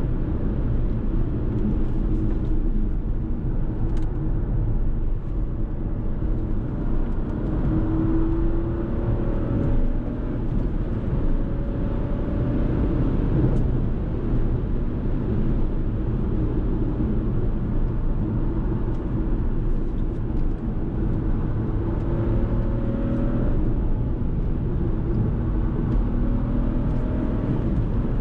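Fiat Tipo 1.0 turbo three-cylinder petrol engine pulling the car along, over a steady bed of road and tyre noise. The engine tone climbs slowly several times.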